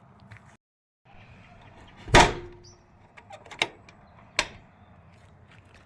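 A door banging shut with one loud knock about two seconds in, then two lighter sharp knocks a second or so apart.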